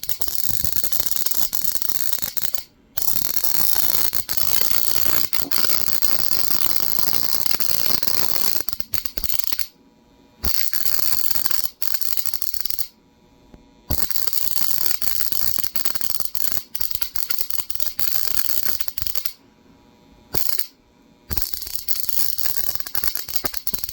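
High-voltage spark gap fed by a transformer, crackling continuously with rapid sparks. It falls silent for a moment about five times, then starts sparking again. The gap is ionized by alpha particles from americium-241, so each alpha particle that comes through sets off a spark.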